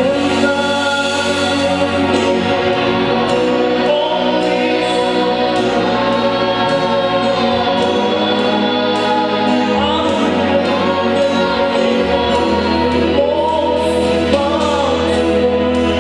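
A choir singing a slow gospel worship song over sustained instrumental accompaniment and a bass line.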